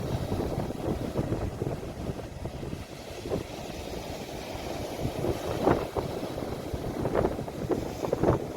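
Sea waves breaking with wind buffeting the phone's microphone: a steady low rumbling wash, with a few short louder surges in the second half.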